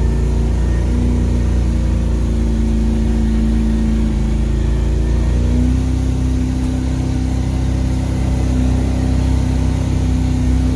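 The 6.2-litre V8 diesel of an M1028 CUCV pickup running hard and steady in first gear on a steep snowy climb, its pitch stepping slightly higher about halfway through.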